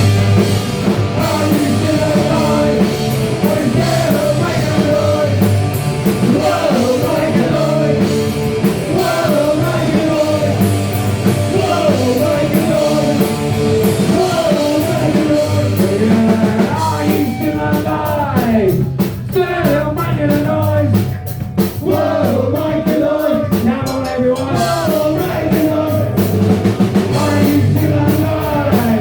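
A punk rock band playing loud and fast live: two electric guitars, bass and a drum kit, with singing over it. About two-thirds of the way in there is a stretch of sliding, bending notes.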